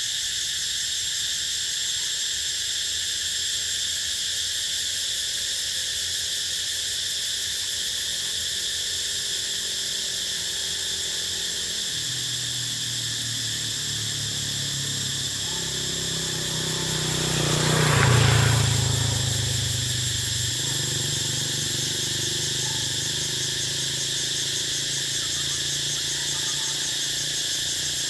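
Steady outdoor chorus of insects, a continuous high-pitched shrill drone. Two-thirds of the way through, a low rumbling noise swells to a peak and fades away again.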